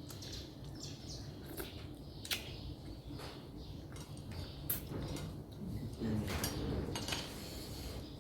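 Close-miked eating sounds from a mukbang meal of noodles with shrimp and fish head: wet mouth and chewing noises with scattered sharp clicks, and a longer noisy stretch about six seconds in.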